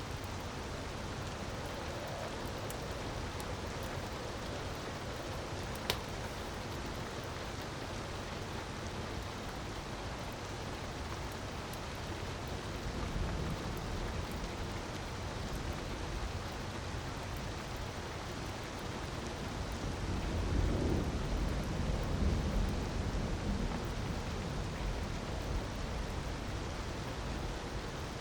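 Steady rushing of falling water from a waterfall with a crackling wood fire, one sharp pop about six seconds in and a deeper swell of the low rush from about twenty seconds in.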